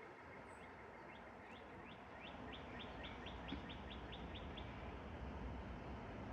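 A songbird singing a run of short, quick rising notes that speed up to about four or five a second, then stop about four and a half seconds in, over a steady low background noise.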